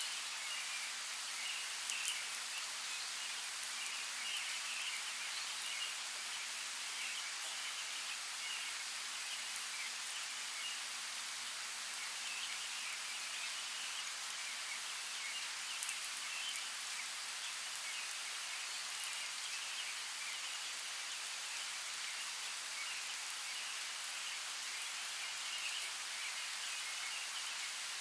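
Steady rainfall, an even hiss of drops, with a few sharper drop ticks about two seconds in and again midway.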